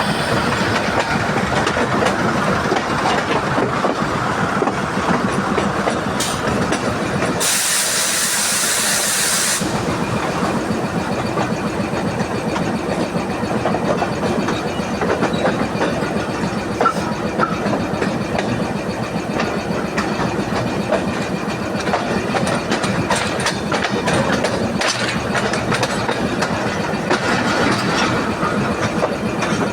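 Express passenger train passing at high speed: a steady rumble with wheel clatter over the rails. About seven seconds in there is a loud hiss lasting about two seconds.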